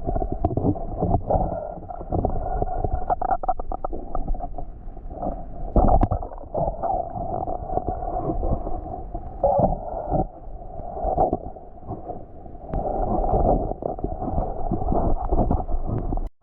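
Muffled gurgling and sloshing of water with irregular dull knocks and bumps, the dull sound of a camera in a waterproof housing under the river's surface during spearfishing.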